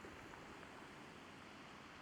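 Faint, steady hiss of seaside ambience: distant waves washing and a light breeze.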